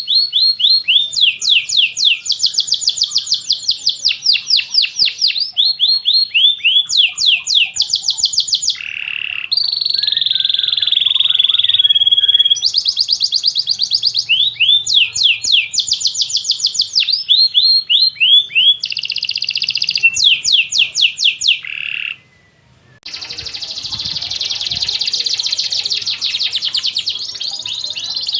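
Domestic canary singing a long song of fast trills: runs of rapidly repeated sweeping notes alternating with held buzzy rolls, broken by a short pause about 22 seconds in.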